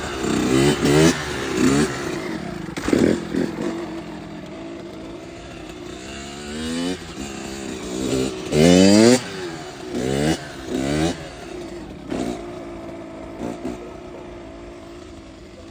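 Dirt bike engine revving in repeated short bursts of throttle, each a quick rise in pitch, the loudest about nine seconds in. It grows fainter toward the end.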